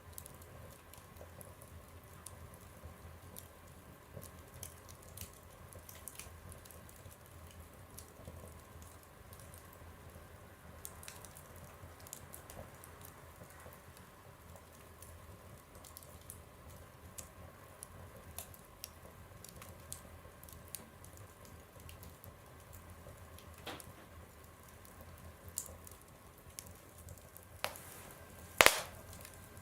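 Wood fire burning in a stove, crackling with scattered small pops and one loud snap near the end.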